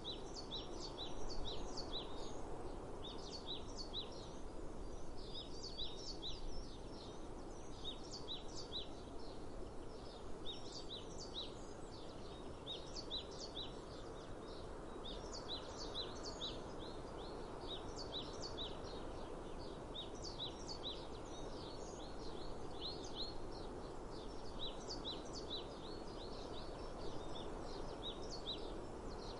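Small birds chirping in quick, repeated short notes over a steady outdoor hiss.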